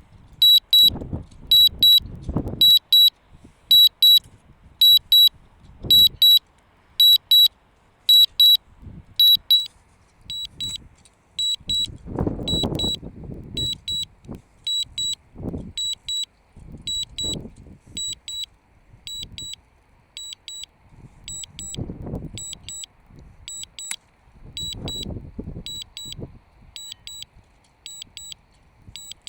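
DJI Mavic Mini remote controller sounding its warning: short high double beeps, about two a second, that grow quieter about ten seconds in. This is the low-battery and return-to-home alarm. Irregular gusts of wind buffet the microphone underneath.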